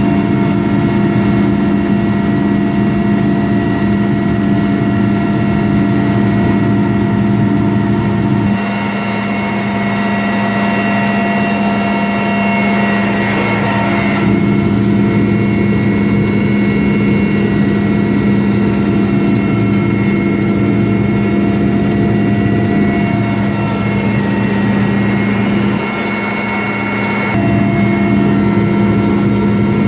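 Military helicopter's turbine engines and rotor heard from inside the cabin in flight: a loud, steady drone with a low hum and a higher whine. The low hum drops away for a few seconds twice and comes back.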